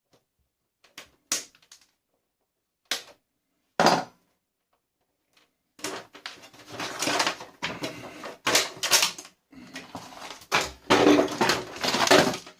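Hard plastic and metal parts of a vacuum cleaner being handled and pulled apart: a few separate clicks and knocks, then about six seconds of continuous, irregular clattering and scraping.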